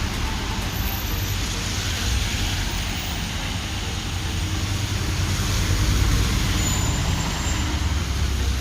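Steady road traffic noise from vehicles on the street, growing louder about five to eight seconds in as a vehicle passes close.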